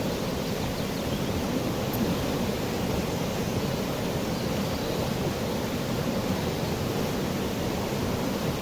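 Water of a river rushing steadily.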